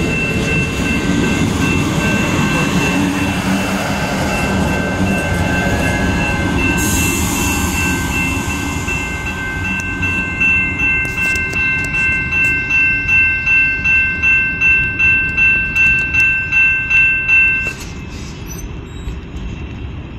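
Amtrak Hiawatha passenger coaches roll past with wheel and rail rumble. Then the grade crossing's warning bells ring clearly, about two strokes a second, and stop suddenly near the end as the gates begin to rise.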